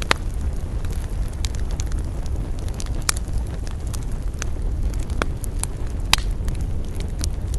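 Wood campfire crackling, with scattered sharp pops; the loudest come right at the start, about three seconds in and about six seconds in. Under them runs a steady low rumble of wind.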